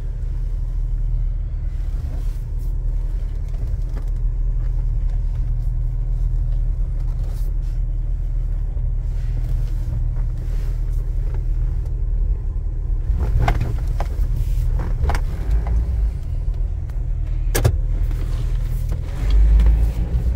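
2006 Jeep Wrangler Rubicon's 4.0-litre straight-six pulling away and driving, heard from inside the cabin as a steady low rumble. A few sharp clicks or knocks come about 13 to 18 seconds in, the sharpest near 17 seconds, and a deeper surge of rumble comes near the end.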